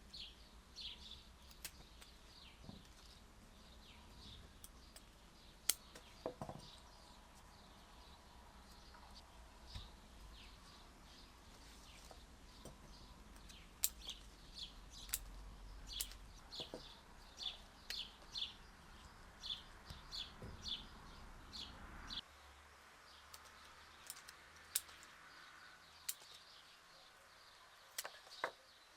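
Small birds chirping faintly: short, high calls repeated throughout, with a few sharp clicks. A low background rumble drops away about two-thirds of the way through.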